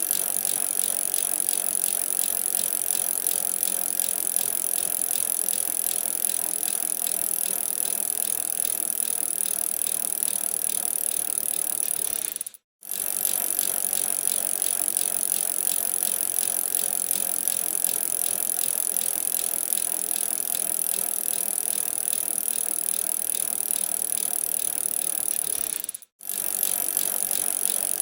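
Bicycle in motion: tyres and drivetrain rattling under a steady high hiss of wind and road noise. The sound drops out completely for a moment twice, about halfway through and near the end.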